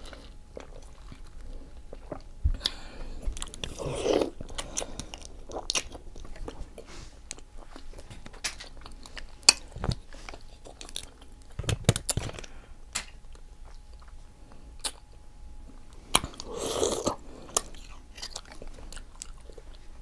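Close-up eating sounds: a person chewing and biting into seafood-boil food, with scattered wet mouth clicks and two longer smacking stretches about four seconds in and again near the end.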